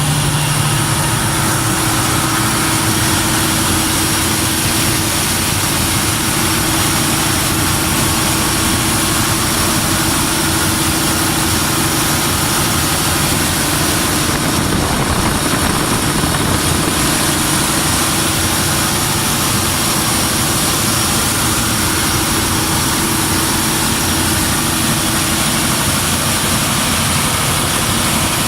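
Mitsubishi 600 kW diesel generator running at a steady, even speed: a loud, constant engine drone.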